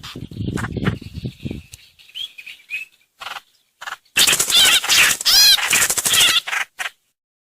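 Recorded lure calls of the bird known in Vietnamese as trao trảo or hoành hoạch. A low, rapid chatter runs for the first couple of seconds. After a brief gap, a loud, harsh chattering chorus with arched high notes lasts about three seconds and then stops abruptly.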